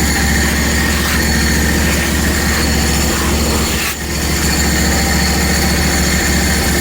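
Hud-Son HFE30 portable band sawmill running steadily, its engine hum carrying several steady high whining tones. The level dips briefly about four seconds in.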